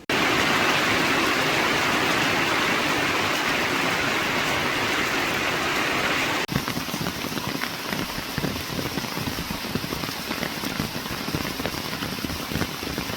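Rain falling: a steady, dense hiss of heavy rain that cuts off sharply about halfway through and gives way to quieter rain with many separate drops ticking.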